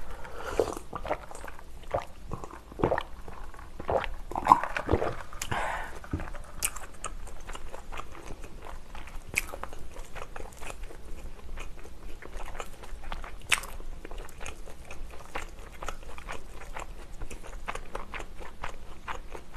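Close-miked eating sounds of fried chicken being bitten and chewed: crunching and wet mouth clicks, busier and louder in the first few seconds, with a sip from a glass at the start.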